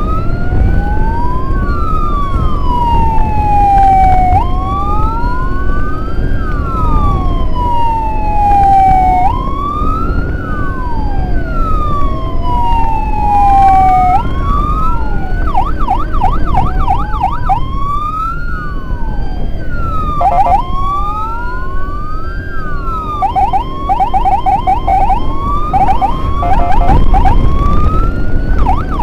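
Two emergency sirens sound together in slow rising and falling wails that cross each other. In the middle and again for the last few seconds they switch to a fast yelp. Underneath runs a steady low road and engine rumble.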